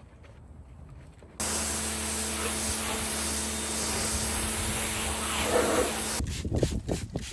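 Detailing machine running with a steady hiss over a constant motor hum, cutting in suddenly about a second and a half in and stopping abruptly near the end. Quick rhythmic rubbing strokes follow it.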